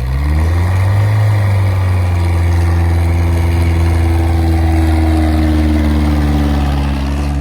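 Tractor diesel engine revving up over the first second, then running hard at high revs, its pitch sagging slightly towards the end.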